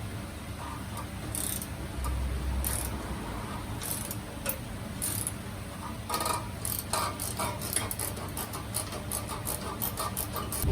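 Hand tools clicking and clinking on metal during exhaust work: a few scattered clicks, then a quick, irregular run of clicks from about six seconds in. A steady low hum sits under it.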